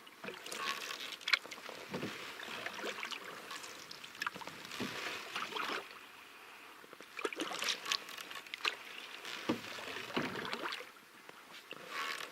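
Canoe paddle strokes in water: splashes and drips, about one stroke every second or two.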